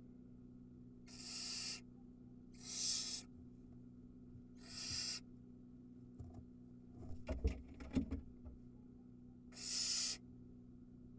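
Barn owl nestlings giving raspy hissing begging calls, four separate hisses of about half a second each. Between the third and fourth, around seven to eight seconds in, comes a cluster of knocks and scuffling, the loudest part. A steady low electrical hum runs underneath.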